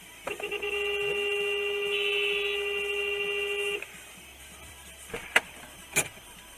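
Car horn held in one steady blast for about three and a half seconds, then cut off, followed by two sharp clicks.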